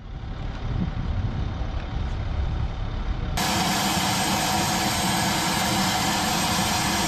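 Heavy engine running with a steady low rumble. About three and a half seconds in the sound cuts abruptly to a louder, brighter, even rushing engine noise.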